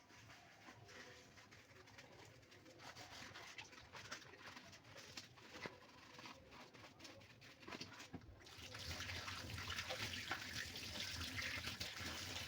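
Plastic ice trays being washed by hand: faint knocks and handling clicks, then from about eight seconds in a steady rush of running water as they are rinsed.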